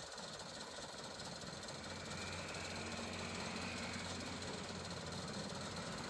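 Truck engine running steadily with a low hum, a little louder from about two seconds in.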